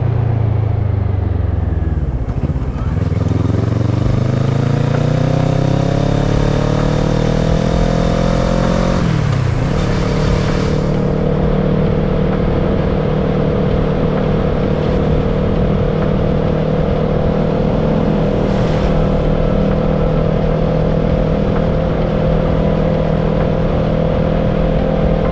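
Kawasaki ER-6n parallel-twin engine under way. The revs fall for about two seconds, then climb steadily under acceleration for about seven seconds. A brief drop comes about nine seconds in at a gear change, after which the engine holds steady cruising revs.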